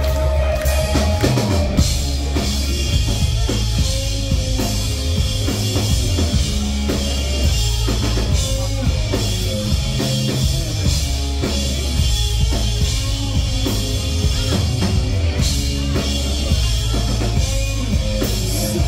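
Pop-punk band playing live through a club PA: an instrumental passage without vocals, driven by a rock drum kit with bass drum and snare over bass and electric guitars.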